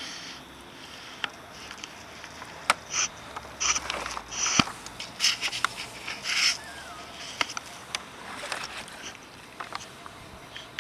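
Handling noises: scattered sharp clicks and knocks mixed with short scraping, rustling bursts, busiest in the middle of the stretch.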